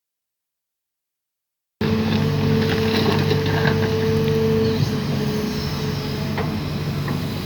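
About two seconds of silence, then a Sumitomo SH210 long-arm excavator's diesel engine cuts in suddenly, running with a steady drone and a higher steady tone above it.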